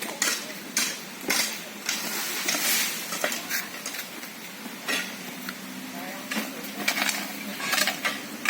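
Metal hand tools scraping and clinking against gravel and concrete in irregular strokes, as in manual road-repair work.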